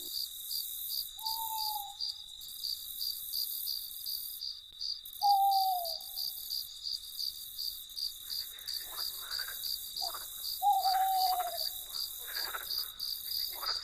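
Crickets chirping in a steady, fast pulse, with an owl giving a short, slightly falling hoot three times, a few seconds apart. From about the middle on, rough scratchy calls from another animal join in.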